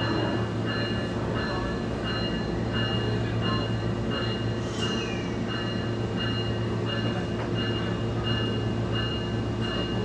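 SMART diesel multiple-unit railcar running along the line, its diesel engine giving a steady low drone. High ringing tones repeat about twice a second throughout, and a short falling squeal comes about halfway.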